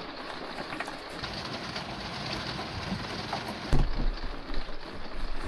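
Heavy rain falling steadily, an even hiss. About two-thirds of the way through comes a loud low thump, followed by irregular low rumbling bumps.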